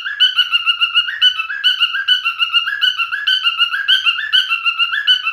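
Male cockatiel singing: a fast, steady run of short whistled notes, several a second, repeating in a looping phrase.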